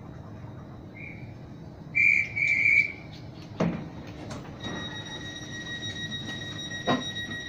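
Railway guard's whistle blown in two short shrill blasts about two seconds in, after a brief faint one, over the low hum of a train standing at the platform. A couple of knocks follow, and a steady high-pitched electronic tone comes on about halfway through.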